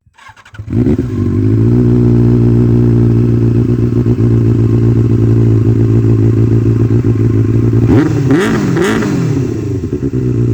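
Benelli 600i inline-four engine, fitted with an Ixil aftermarket exhaust, starting up under a second in and idling steadily. Two quick blips of the throttle near the end, each rising and falling in pitch, before it settles back to idle.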